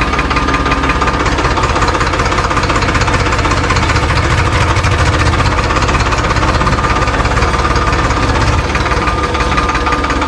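Engine running steadily with a fast, even knocking beat, in the style of a small diesel tractor engine chugging.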